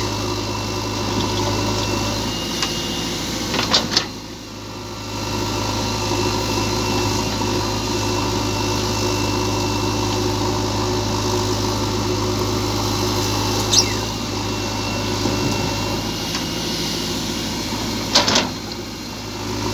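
Engine of a JCB backhoe loader running steadily with a constant low drone, broken by a few sharp clicks and two brief drops in level.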